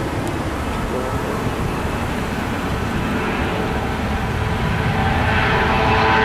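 Jet airliner engines: a steady rumble that grows louder, with whining tones rising in over the last couple of seconds as the aircraft comes closer.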